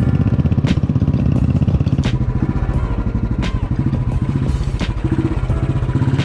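Vehicle engine running steadily during a ride, with scattered sharp knocks and rattles over it.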